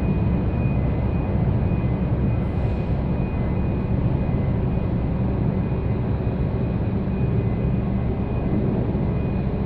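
Steady low rumble of a ferry's engines under way, with a faint, steady high whine above it.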